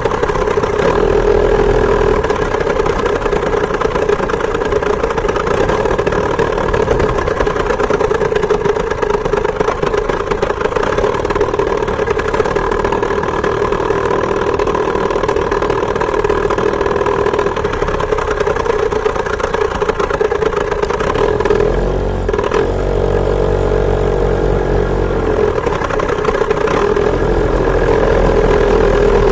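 Two-stroke chainsaw engine driving a homemade moped, running steadily at high revs. About two-thirds of the way through it eases off to a lower speed for a few seconds, then picks back up.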